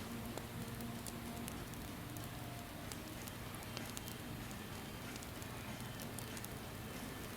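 Campfire burning with a steady crackle and occasional small pops.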